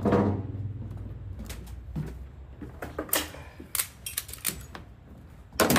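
Ratchet tie-down strap being cranked tight on a car hauler: a string of irregular ratcheting clicks, louder and quicker near the end.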